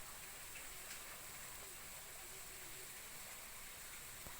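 Faint steady hiss of outdoor background noise, with a thin high-pitched line running through it.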